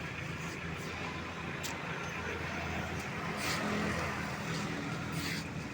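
A motor vehicle's engine running steadily with road and traffic noise. A louder swell comes about three and a half seconds in.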